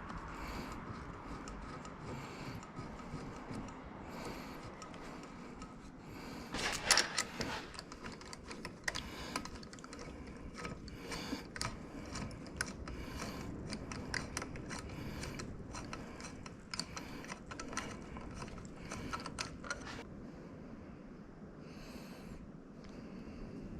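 Irregular light metallic clicks and taps of hand tools and parts being handled, busiest through the middle stretch and thinning out near the end, over a low steady background.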